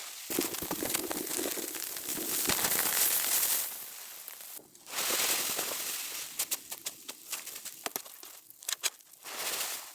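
Crinkly rustling in two long bursts, then a run of sharp crackles and clicks, and one more short burst of rustling near the end.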